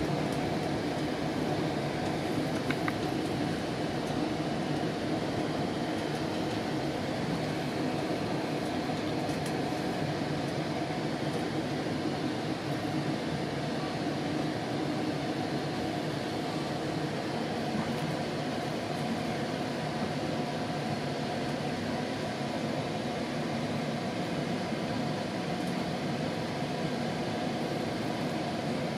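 Steady rumble inside a GO Transit bilevel commuter coach running along the line at speed, with an even level and a faint steady tone under it.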